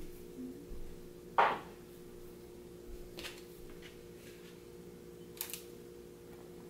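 Kitchen handling noises: a sharp knock about a second and a half in, then a few lighter clicks as things are picked up and set down, over a steady low hum.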